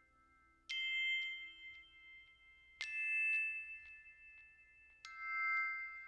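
Background music: three high, bell-like struck notes about two seconds apart, each ringing on and fading.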